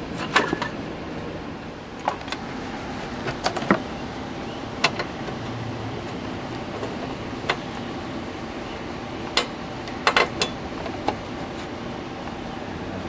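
Scattered sharp metallic clicks and knocks of hand tools and parts working on a garden tractor's dash and bolts, irregular, with small clusters near the start and about ten seconds in, over a steady background hiss.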